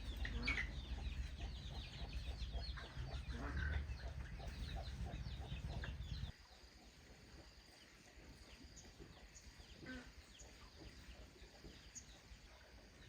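Chickens clucking and chirping, many short calls over a low rumble that cuts off abruptly about six seconds in; fainter calls continue after it.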